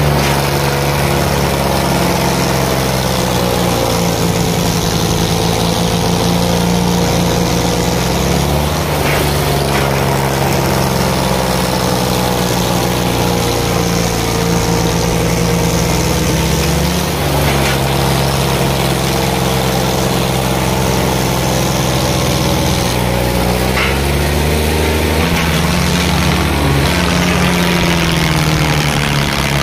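Tractor diesel engines running hard and continuously, their pitch rising and falling in slow swells every several seconds.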